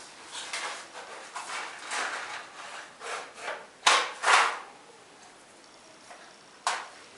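Firewood being handled, wood rubbing and knocking in a run of short scraping strokes. The two loudest come close together about four seconds in, and one more comes near the end.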